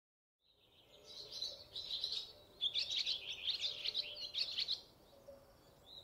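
Small birds singing in quick, twittering chirps, in phrases with brief pauses between them and another short burst near the end.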